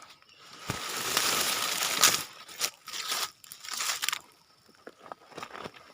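Rustling and crackling handling noise, loudest for a second and a half near the start, then several sharp clicks and short rustles.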